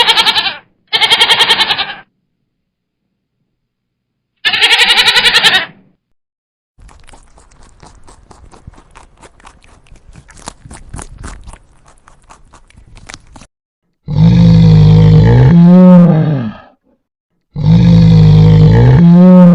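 Three loud goat bleats, then several seconds of faint rapid clicking, then two long, low-pitched animal calls whose pitch wavers near their ends.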